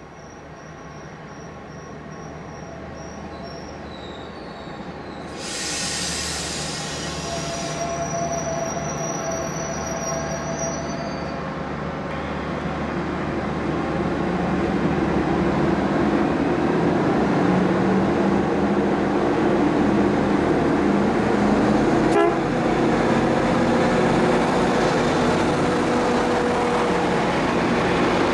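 Passenger train approaching and passing close by, its running noise and wheel rumble growing steadily louder until the carriages go past. A short burst of hiss comes about five seconds in, then a held horn tone for a few seconds. A single click from the wheels over the rails comes near the end.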